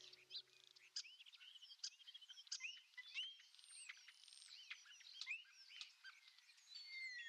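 Faint birdsong: many short chirps and whistled notes, some sliding down in pitch, scattered through the whole stretch.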